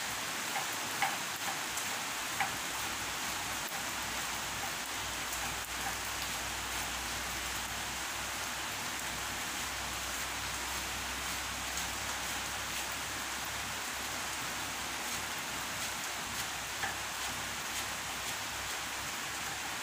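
Steady heavy rain, an even hiss of falling water. A few faint, short taps of a knife on a cutting board stand out now and then.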